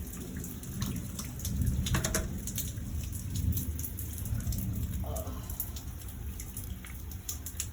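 Rain falling steadily, with scattered sharp drop ticks hitting a surface over a low rumble.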